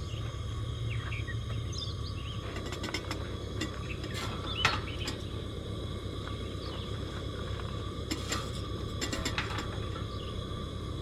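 Outdoor campsite ambience: a steady low rumble under thin, steady high-pitched tones, with a few sharp clicks and knocks. The loudest click comes about four and a half seconds in, and a cluster of them follows near the end.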